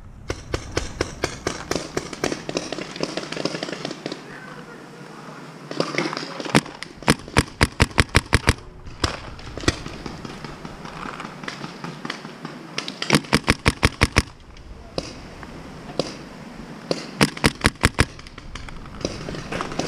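Paintball markers firing: three rapid strings of about ten shots each, at roughly five a second, a third of the way in, about two-thirds in and near the end, with scattered single shots between.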